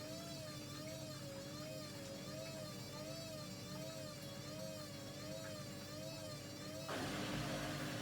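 Washing machine running: a steady motor hum with a higher whine that wavers up and down in pitch about once a second as the drum turns. About seven seconds in, a hissing rush suddenly joins and the sound gets louder.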